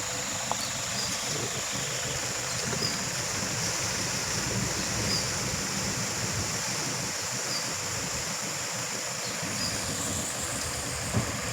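Steady rush of water from a river waterfall, with a steady high-pitched tone and faint occasional chirps above it.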